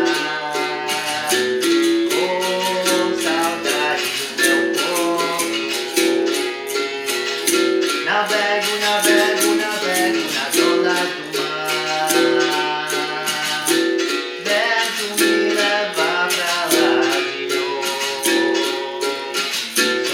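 Capoeira bateria music: berimbau playing a steady repeating rhythm with percussion, under a sung vocal line.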